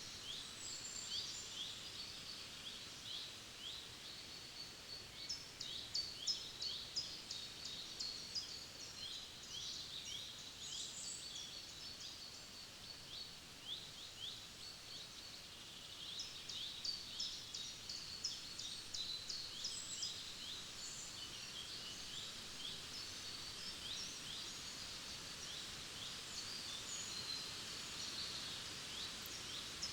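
Forest birds singing: rapid runs of short, high, falling chirps that come and go in bursts, with several birds overlapping over a faint steady background hiss.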